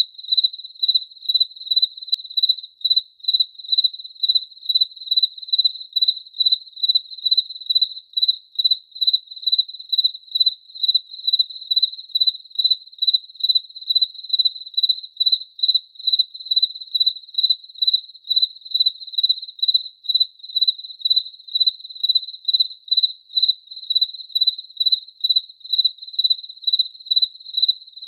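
A cricket chirping steadily: one high-pitched chirp repeated evenly, about two to three chirps a second.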